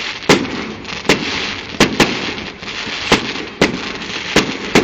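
Fireworks going off: about eight sharp bangs at uneven gaps in under five seconds, two of them close together, over a steady hiss.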